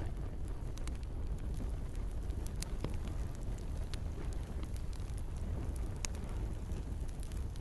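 Campfire crackling, with scattered sharp pops and snaps over a steady low rumble of the flames, and a soft hiss of rain.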